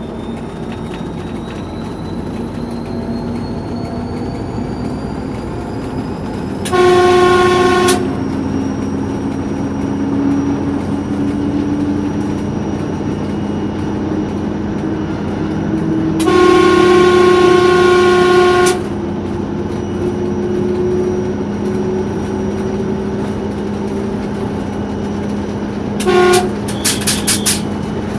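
TEP70 diesel locomotive's V16 diesel engine (5D49) pulling harder, its turbocharger whistle rising steadily in pitch as the turbine spools up. The locomotive horn sounds over it: a short blast, then a longer one in the middle, then a string of quick short toots near the end.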